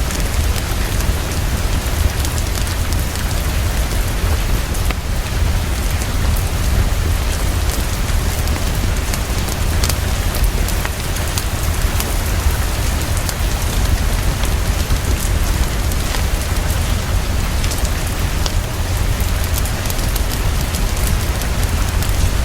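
Heavy, steady rainfall with a deep continuous rumble underneath and scattered small crackles, as of a wood fire in a fireplace.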